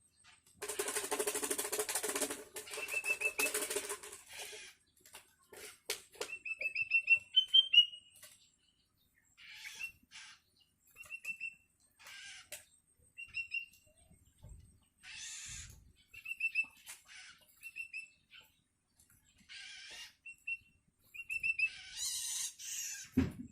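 Long-tailed shrike (cendet) chicks calling: a loud, harsh rasping call for the first few seconds, then short runs of quick high notes mixed with further rasps. These are the begging calls of hungry young birds.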